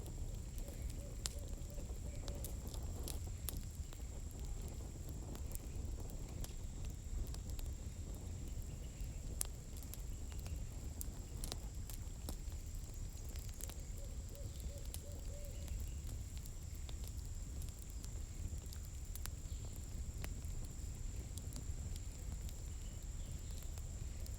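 Campfire of burning firewood crackling: irregular sharp snaps and pops, some louder than others, over a low steady rumble. A faint steady high-pitched tone runs underneath.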